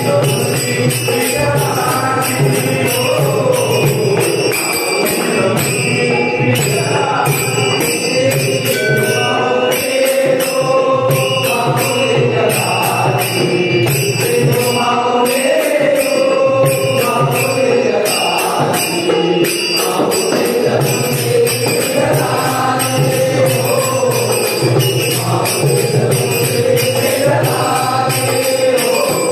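Marathi devotional bhajan singing in a chant-like style, kept in time by steady jingling strikes of small hand cymbals.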